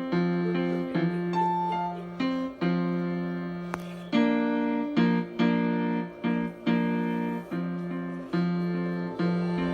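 Piano playing a slow instrumental piece: held chords struck again every second or so over a sustained bass note.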